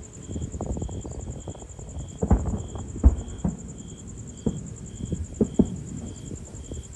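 Fireworks going off: a series of sharp booms and pops from about two seconds in, over a steady low rumbling crackle. A faint high tone pulses about twice a second throughout.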